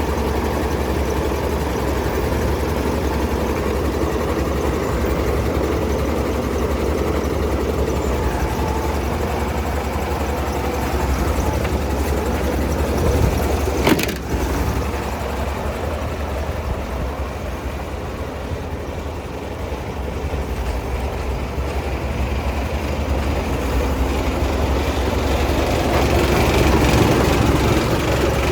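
MAN 26.272 concrete mixer truck's diesel engine running steadily at idle with a deep rumble, growing slightly louder near the end. A single sharp knock comes about halfway through.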